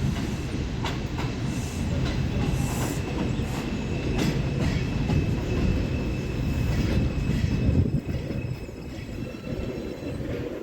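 R142-series subway train running past on the Jerome Avenue line, a low rumble with wheels clacking over rail joints and a faint steady squeal. The rumble eases near the end.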